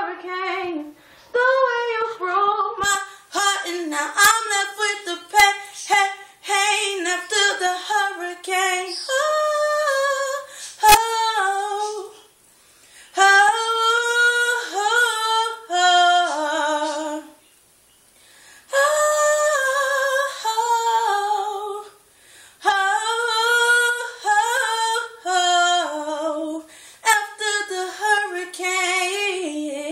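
A young woman singing unaccompanied in a small room, with long held notes wavering with vibrato and sliding runs. The phrases are broken by two short breaths, about twelve and eighteen seconds in.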